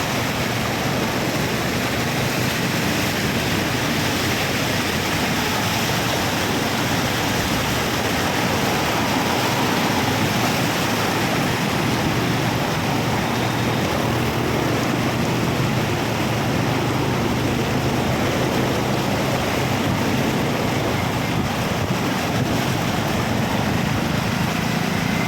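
Steady rushing of water and road traffic on a rain-flooded road, with a low vehicle engine hum underneath.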